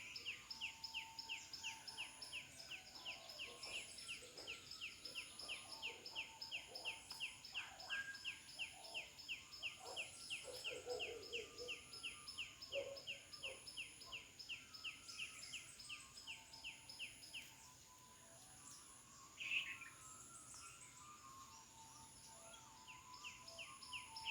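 Wild birds calling in the morning: one bird repeats a fast, even series of sharp notes, about three a second, that stops about two-thirds of the way through and starts again near the end. Other scattered calls, with one louder call shortly after the series stops, and a faint high note repeating about every second.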